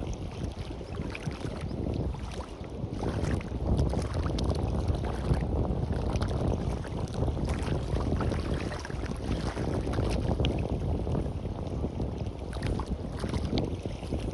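Sea waves washing on a beach, swelling and ebbing, with fine crackling fizz as the water runs over the shore. Wind rumbles on the microphone underneath.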